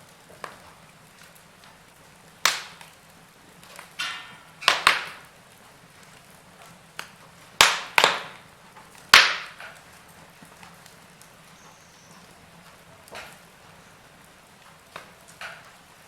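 Wood fire crackling in a fireplace: irregular sharp pops and snaps, the loudest bunched around the middle, over a faint steady hiss.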